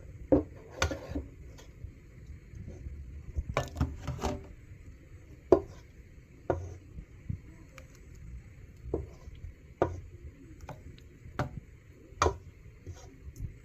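Utensils and food containers clinking and knocking as food is dished out of a pot, in irregular separate strikes about a second apart, with scraping between them.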